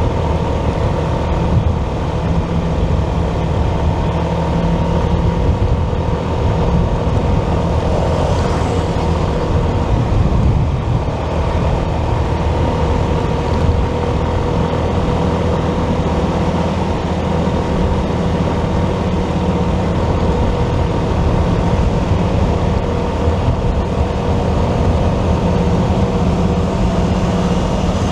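A motorcycle being ridden at steady speed: its engine running evenly under constant wind and road noise, with traffic around it.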